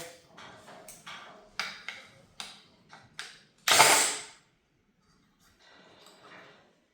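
Hand ratchet clicking in short strokes, about two clicks a second, followed by a louder noisy burst lasting about half a second around four seconds in.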